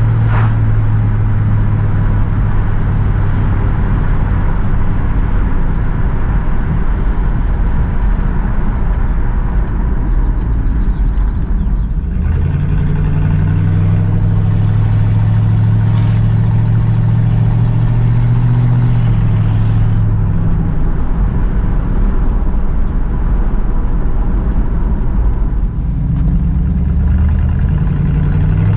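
1967 Pontiac Firebird's 327 cubic-inch V8 running at a steady pace, its engine note stepping up in pitch about twelve seconds in as it pulls harder. It eases back after about twenty seconds and climbs again near the end, with wind and road noise throughout.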